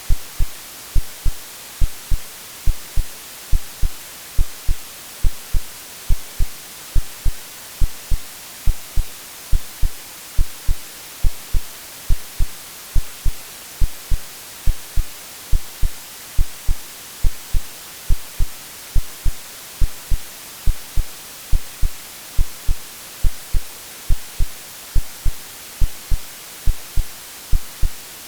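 Steady white noise hiss layered with a synthesized heartbeat: regular low thumps a little more than once a second, like the womb sounds used to settle a baby to sleep.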